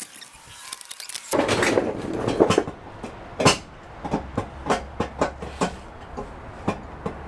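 A steel exhaust header being forced up into a C6 Corvette's engine bay: a scraping, rustling stretch about a second in, then a run of sharp metal knocks and clanks as it is pushed and pulled through the tight space.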